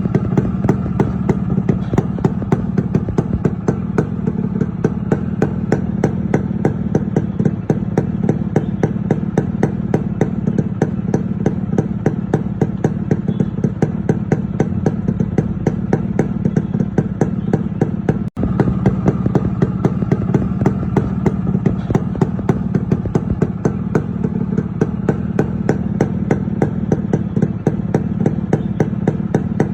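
Yamaha RX100 single-cylinder two-stroke engine running at idle, with a steady low drone and sharp pops at a regular beat of about three a second. It cuts out for an instant about eighteen seconds in.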